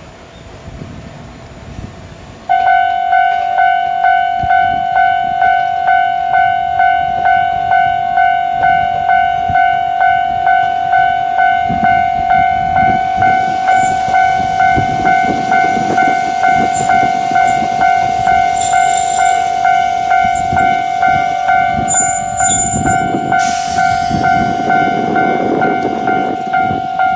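Railway level crossing alarm ringing, a steady pitched tone pulsing about twice a second, starting suddenly a couple of seconds in. In the second half a train can be heard rumbling by underneath it.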